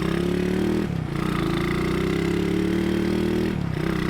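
Seri Perlis prototype motorcycle, powered by a tuned Modenas Jaguar engine, running hard under acceleration. The revs drop briefly twice, about a second in and again near the end, as it shifts up through its five-speed gearbox, then pull steadily back up.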